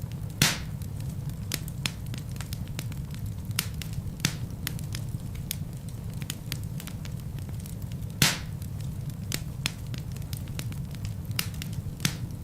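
Wood fire burning in a fireplace, with a low steady rumble of flame and many small crackles. Two louder sharp pops, one near the start and one about two-thirds of the way through.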